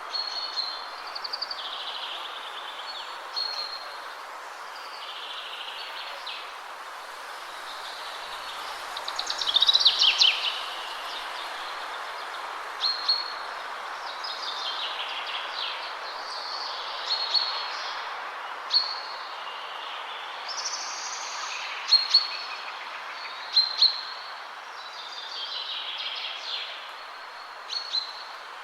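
Steady rush of wind through trees, with several songbirds calling and singing over it: short repeated high notes and longer trilled phrases, the loudest song about ten seconds in.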